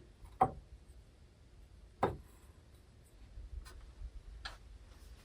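Small objects being handled, giving a few sharp clicks and knocks: two louder ones about half a second and two seconds in, then fainter ticks later.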